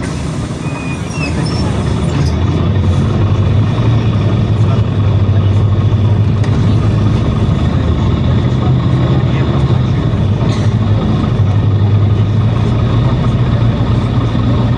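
Inside a PAZ Citymax 9 city bus under way: the engine runs steadily over road noise, getting louder about two seconds in as the bus picks up speed.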